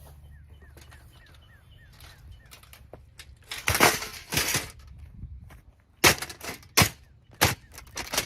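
A plastic Holmes box fan being smashed: after a quiet start come two noisy crunching crashes, then four sharp hits in a steady rhythm, well under a second apart, near the end.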